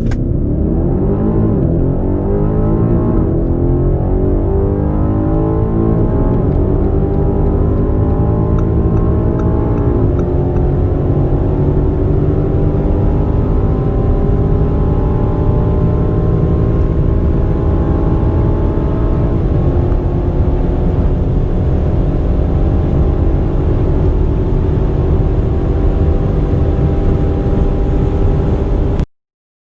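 Twin-turbo V8 SUV accelerating hard at full throttle. The engine note climbs steadily in pitch through the gears and dips at upshifts about ten seconds in and again near twenty seconds. The sound cuts off abruptly just before the end.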